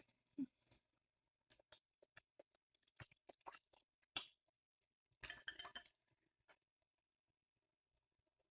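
Faint eating sounds of a person chewing noodles: scattered soft mouth clicks, with a brief slightly louder cluster about five seconds in.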